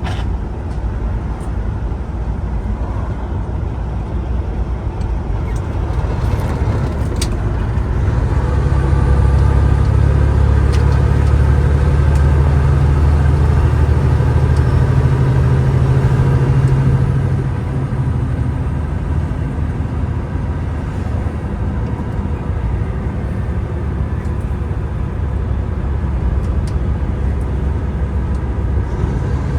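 Semi truck's diesel engine running steadily; its low drone grows louder and heavier about eight seconds in and eases back after about seventeen seconds.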